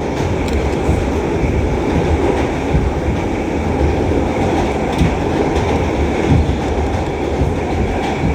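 Inside a New York City subway D train car running at speed through the tunnel: a steady loud rumble with a few clicks of the wheels over the rail joints.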